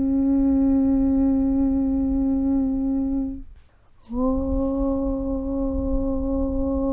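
A long hummed 'Aum' chant held on one steady low note. It breaks off a little after three seconds, leaves a gap of under a second, then starts again on the same pitch.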